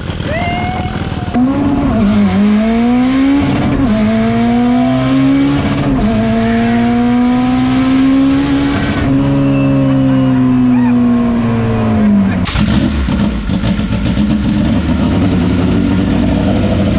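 Stripped-out race car's engine pulling hard, heard from inside the cabin, its pitch climbing and falling back several times as it runs through the revs. A rougher, noisier engine sound takes over about twelve seconds in, and a small pit bike engine is heard briefly at the start.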